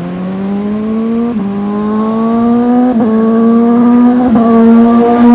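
Inline-four sport motorcycle accelerating hard, its engine note climbing through the gears with three quick clutchless quickshifter upshifts, each a short dip in pitch. It gets louder as it goes.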